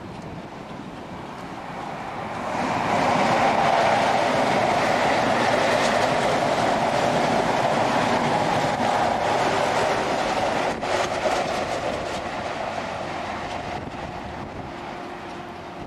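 An InterCity 125 High Speed Train passes close by. It swells quickly about two seconds in and runs loud and steady with its wheels on the rails, with a few sharp clicks around two thirds of the way through. It then slowly fades as it draws away.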